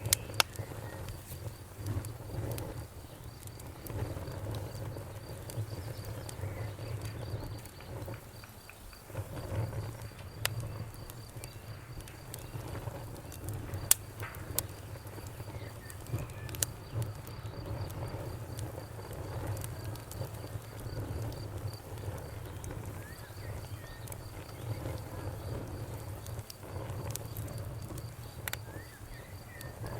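Campfire burning with a low rumble of flames and scattered sharp crackles and pops, one louder pop about halfway through. A faint, high, evenly pulsing insect trill runs underneath.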